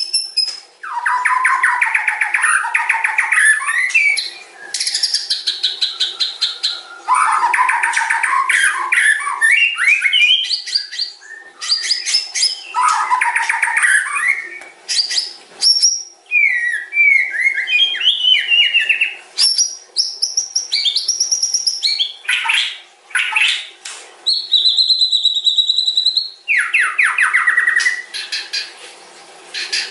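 White-rumped shama (murai batu) singing a long, varied song: fast stuttering trills, gliding whistles and sharp repeated notes, broken by short pauses.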